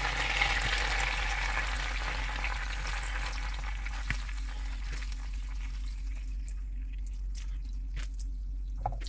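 Marinated chicken pieces sizzling as they are laid into hot melted butter in a frying pan. The sizzle is strongest at first and dies down over the following seconds as the pan fills, with a few faint clicks in the second half.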